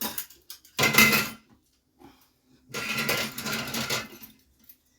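Clinking and scraping handling noises, like utensils or a knife on a hard surface, in two bursts: a short one about a second in and a longer one in the middle.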